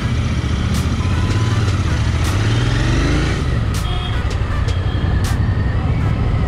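Royal Enfield Interceptor 650's 648 cc parallel-twin engine running at low speed in stop-and-go traffic, a steady low rumble heard from the saddle, with other traffic around it.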